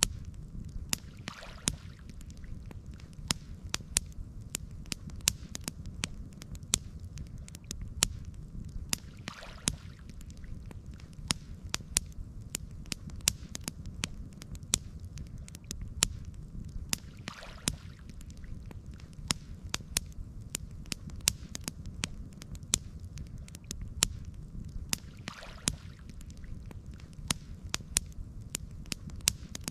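Campfire crackling: frequent sharp pops and snaps over a steady low rumble. A soft hiss swells up about every eight seconds.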